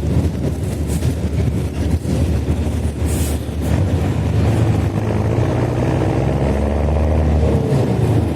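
Mercedes-Benz OH-1420 bus diesel engine with an open exhaust, running under way. It is loud and steady, with the engine pitch shifting in the second half and a brief hiss about three seconds in.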